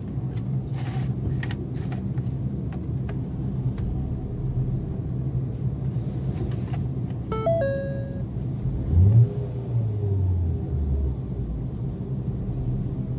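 Ford Focus engine idling steadily on a newly replaced engine mount, then revved once about nine seconds in and dropping back to idle, with no vibration noise. A short instrument-cluster warning chime sounds just before the rev, and a few light clicks come in the first seconds.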